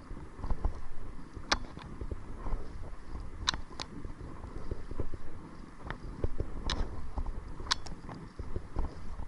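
Kayak being paddled: a steady low rumble of wind on the microphone, with sharp short splashes or ticks from the paddle every second or two.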